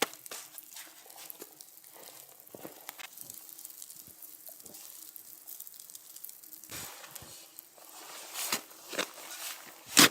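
Scattered small crackles and clicks over a faint steady hum, with a few louder clicks and knocks in the last couple of seconds.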